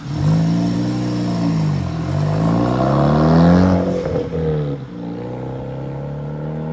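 Big-turbo Ford Focus ST, fitted with a Garrett GT3071R turbo, accelerating hard past. Its revs climb sharply, drop at a gear change about two seconds in, climb again, then fall at a second shift a little after the middle and hold lower as the car goes by.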